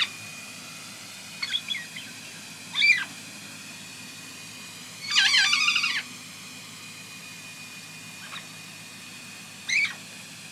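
Pet parrots calling: a few short high calls, then a longer, louder burst of squawks about five seconds in, and one more call near the end.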